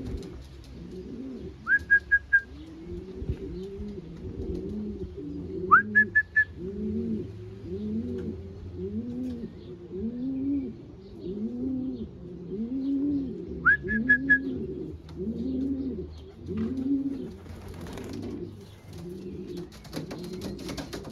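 Racing pigeons cooing, low rising-and-falling coos overlapping about once a second. Three times a short high chirp cuts in, and there is rustling near the end.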